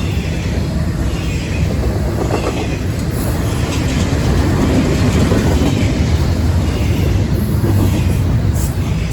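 A train rolling past, its wheels running on the rails with a steady rumble that grows somewhat louder past the middle.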